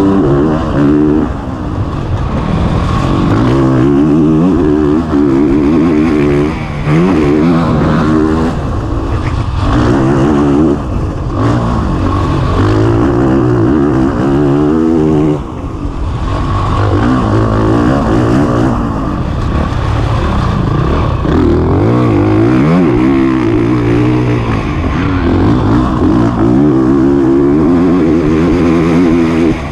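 Single-cylinder four-stroke engine of a Honda CRF450RX dirt bike, heard on board while racing a motocross track. It revs up and down over and over, with short throttle chops, including a deeper dip about fifteen seconds in.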